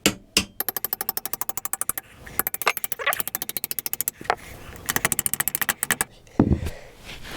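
Hammer striking a screwdriver to drive it through a motorcycle frame's engine mounting holes, lining the frame up on the engine. A couple of single metallic blows, then three quick runs of rapid, even taps about fourteen a second, and a heavier thud near the end.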